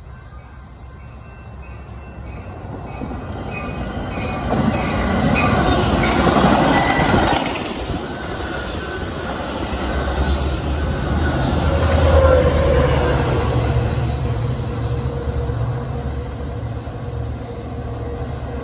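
Metra commuter train of bilevel gallery cars, hauled by an EMD F40PH-series diesel, passing at speed. The wheel-and-rail noise builds steadily to a peak about a third of the way in and stays loud as the cars go by. In the second half a low, steady diesel engine drone comes in.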